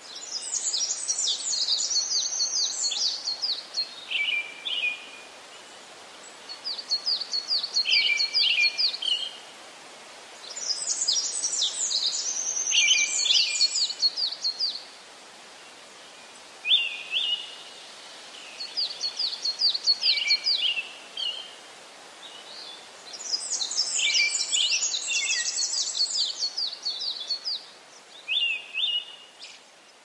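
Songbird singing in phrases of rapid high chirps a few seconds long, broken by short pauses, over a steady hiss.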